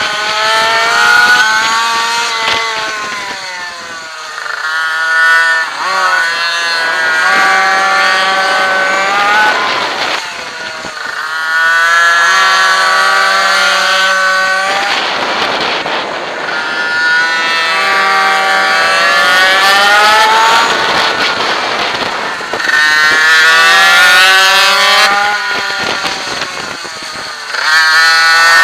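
Racing minibike's small two-stroke engine at full throttle, its pitch climbing hard along each straight and dropping as the throttle closes for a corner, over and over. At times a second bike's engine runs alongside.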